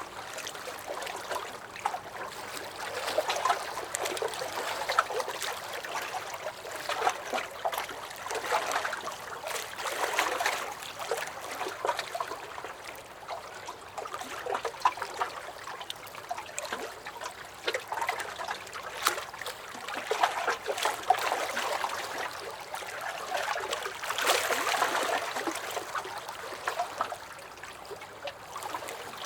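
Small lake waves lapping and splashing against a dock, swelling and easing every few seconds, with small sloshes and drips throughout.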